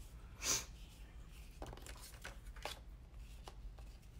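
Paper being handled and cut on a paper trimmer: rustling with light clicks and taps, and one louder short swish about half a second in.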